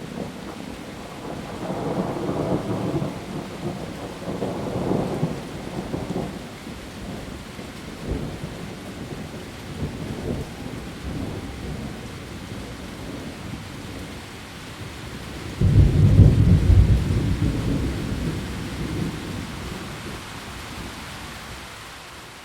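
Heavy rain falling steadily on leaves, with thunder: low rolls about two and five seconds in, and a louder clap about three-quarters of the way through that starts suddenly and rumbles away over a few seconds.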